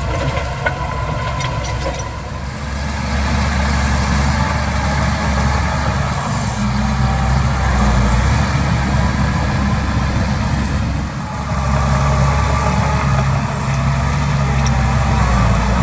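Diesel engine of heavy earthmoving machinery running steadily, with a brief drop in level about two seconds in and again near eleven seconds.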